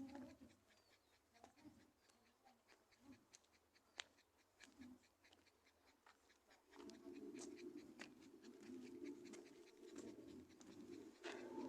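Faint dog sounds: light clicks and scuffs at first, then from about seven seconds in a steadier, low dog sound that runs on.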